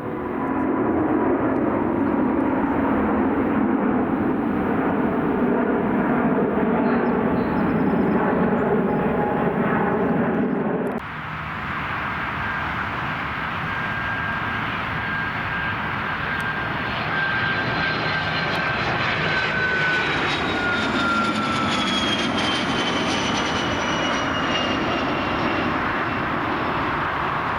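Jet airliner engines. At first there is a steady, loud rumble with low humming tones; about 11 seconds in it changes abruptly to another jet, whose engine whine slides down in pitch as the aircraft passes.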